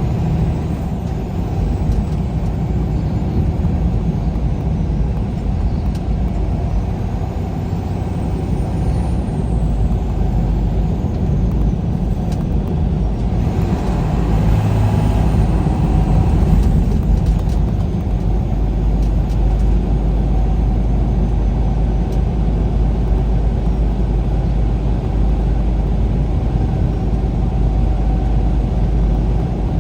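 Steady road and engine noise from a vehicle driving along a highway. A louder rush of noise swells for a few seconds about halfway through.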